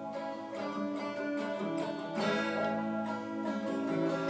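Acoustic guitar strummed in an instrumental break between sung lines of a song, with chords ringing on.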